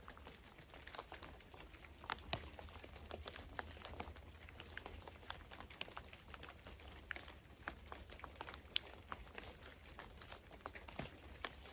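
Faint, irregular patter of small sharp clicks and ticks, several a second, over a low steady hum.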